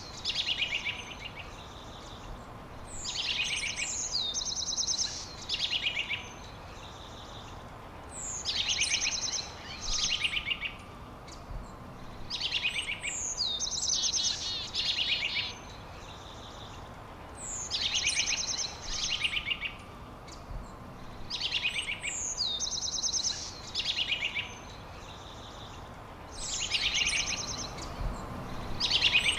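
A songbird singing the same short phrase about seven times, roughly every four to five seconds. Each phrase opens with a falling whistle and runs into quick trilled notes, over a steady background hiss.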